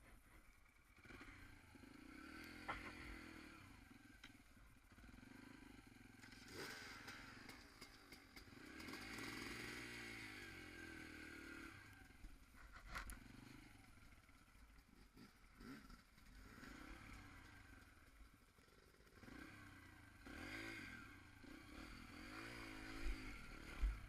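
Enduro dirt bike engine, faint, revving up and falling back in repeated swells as it is ridden over rough ground, with a couple of sharp knocks.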